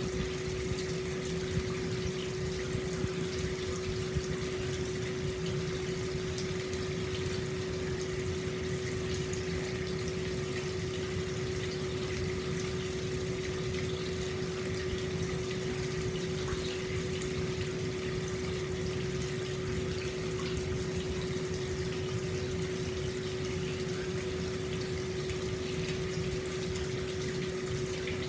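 Hot spring water pouring steadily into an open-air bath, a continuous splashing flow with a steady low hum running under it.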